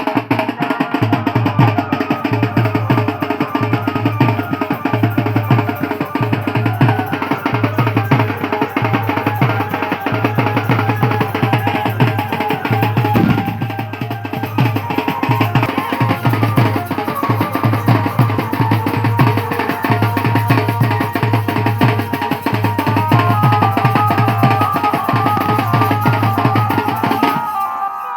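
Chhattisgarhi Raut Nacha folk music: drums keep a steady, driving beat about one and a half strokes a second, with a high melody line above them.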